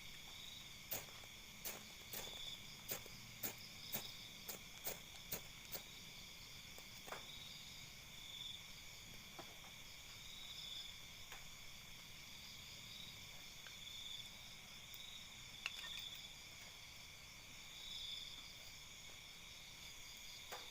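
Night chorus of crickets and other insects, a faint steady high trilling with a slow pulsing swell. A run of sharp clicks or taps, about two a second, comes through the first six seconds, with a few more scattered later.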